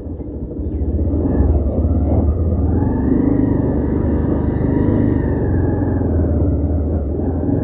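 Motorcycle engine running under way, with a steady low rumble of wind and road. The engine note rises a little through the middle and eases back down.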